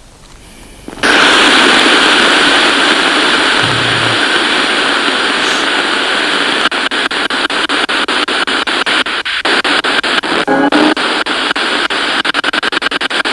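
A ghost-hunting spirit box, a radio scanner, switched on about a second in: loud radio static hiss. From about halfway it breaks into rapid, even choppy pulses, several a second, as it sweeps through the stations.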